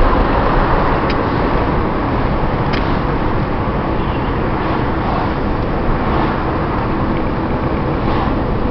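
Steady road noise inside a moving car: an even rumble of tyres and engine at highway speed, with a couple of faint ticks.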